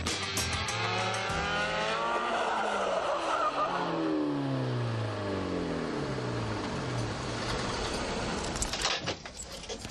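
Yugo hatchback with a high-flow exhaust, its small engine revving hard as the car spins on pavement with tyre scrub. The revs climb for about two seconds, turn rough and noisy, then the pitch falls steadily and fades near the end.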